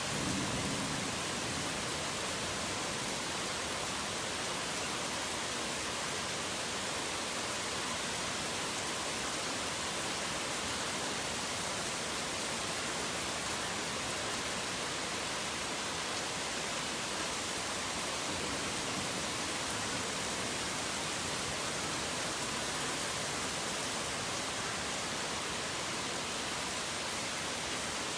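Heavy rain falling steadily, an even hiss with no separate drops standing out. A low rumble of thunder fades away in the first second.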